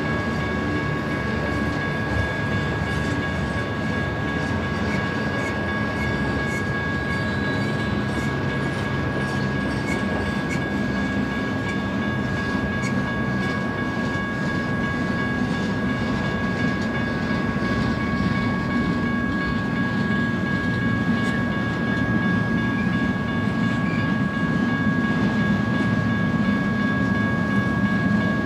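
Freight train passing, steel wheels rolling over the rails in a steady rumble with some clickety-clack. Two steady high ringing tones sit over the rumble throughout. The rumble grows louder near the end as the loaded double-stack container cars come by.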